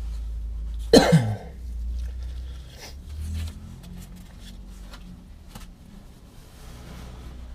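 A person coughing once, loudly, about a second in, over a steady low hum.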